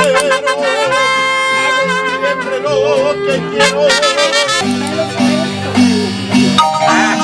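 Live-style Mexican music: brass, likely trumpets, playing a melody in long held notes with a wide vibrato. About four and a half seconds in, the brass gives way to a marimba playing quick repeated notes.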